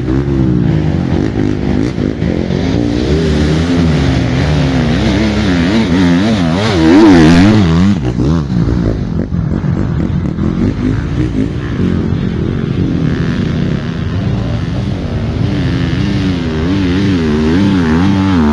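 Off-road motorcycle engines revving, the pitch rising and falling again and again as riders work the throttle and clutch in first gear. The loudest burst comes about seven seconds in.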